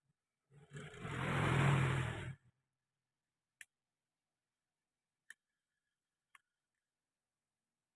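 A workshop tool runs in one burst of about two seconds, then three short, sharp metal clinks of parts or tools.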